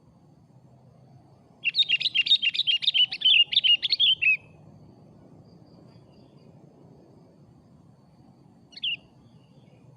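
Sooty-headed bulbul (kutilang) singing a fast run of quickly repeated chirping notes for nearly three seconds, then giving one short call near the end.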